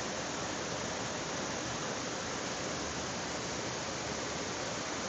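Steady, even rushing of heavy rain together with the water of a valley stream.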